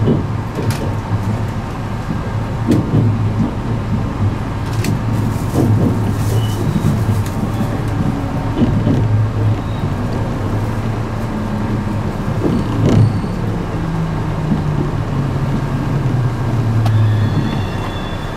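Running noise of an E653 series limited express electric train heard from inside the carriage as it slows through a station: a steady low rumble with irregular knocks from the wheels over rail joints and points. In the last few seconds a low motor tone steps down in pitch as the train brakes toward its stop.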